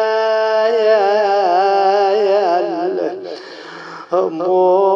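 A man chanting a mournful Arabic lament in long held notes, with the pitch wavering and turning in melismatic runs. The voice drops away briefly a little after three seconds in and comes back about a second later.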